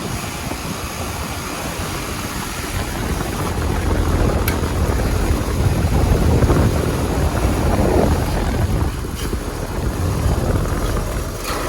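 Carrier Performance Series 24ACB17 4-ton central air conditioner condenser running, its fan and Copeland scroll compressor giving a loud, deep, steady drone that swells and eases slightly. It is really unbalanced, which the owner puts down to a loose bolt or something wrong with the install.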